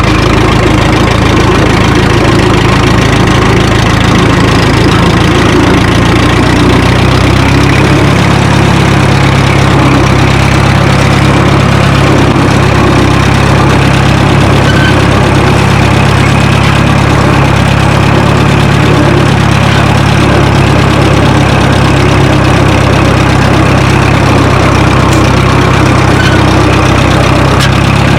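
Minneapolis-Moline U tractor's four-cylinder engine running steadily while the tractor is driven in third gear; the engine note changes about seven seconds in. It runs smoothly, a sign the engine is running well after sitting.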